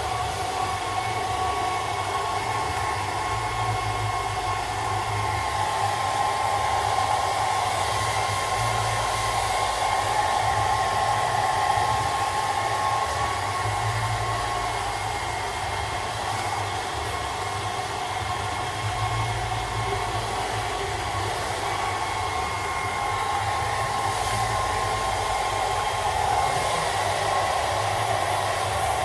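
Handheld hairdryer running steadily: a rush of air with a constant whine over a low hum, its loudness swelling and easing a little.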